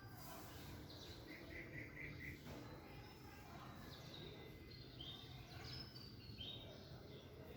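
Birds chirping faintly with scattered short calls, including a quick run of about six notes between one and two and a half seconds in, over a low background rumble.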